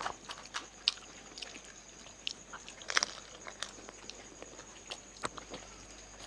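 Crisp fuchka (pani puri) shells cracking and crunching as they are bitten and chewed, in irregular sharp crackles, the loudest about three seconds in.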